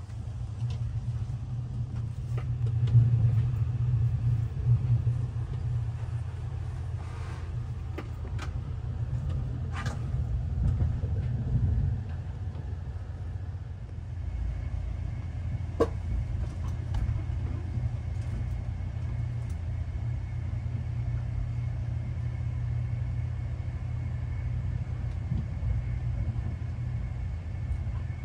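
Steady low rumble of a moving electric intercity train heard from inside the passenger carriage, with a few faint clicks. A faint steady high whine joins about halfway through.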